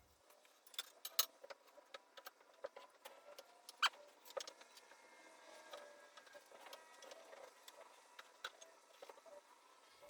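Faint, scattered metallic clicks, taps and clinks, as of exhaust parts and tools being handled, with a few sharper knocks about a second in and about four seconds in.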